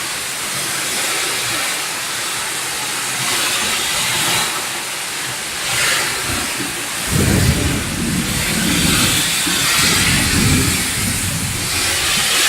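Heavy rain pouring down with a steady hiss in a wind-and-rain storm. About seven seconds in, gusts of wind join with an irregular low rumble.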